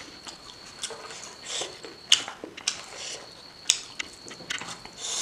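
Close-up eating sounds: pork and rice being chewed, with wet mouth clicks and smacks and a few short breaths through the nose. A faint steady high whine sits underneath.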